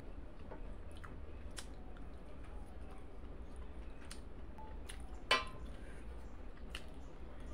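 Quiet eating sounds: soft chewing and faint clicks of fingers on a steel plate, with one sharper click about five seconds in, over a low steady hum.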